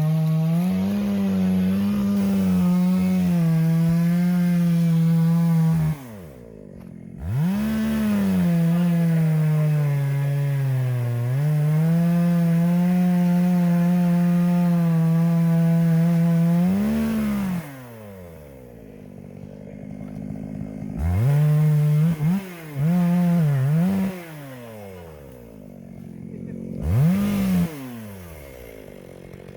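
Zenoah two-stroke chainsaw running at full throttle, cutting wood, its revs sagging under load. It drops to idle twice when the throttle is released, then is given several short throttle blips near the end.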